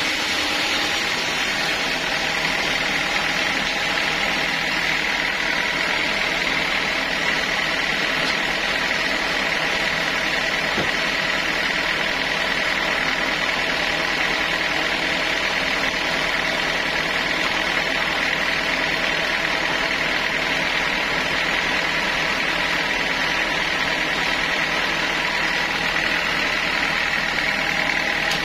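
Sawmill saw machinery running steadily, a continuous mechanical drone with a steady high whine over it.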